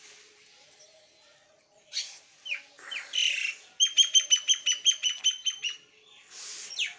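Small bird calling: a few high, downward-sliding chirps, then a fast, even run of about a dozen clipped notes, roughly six a second, and more sliding chirps near the end.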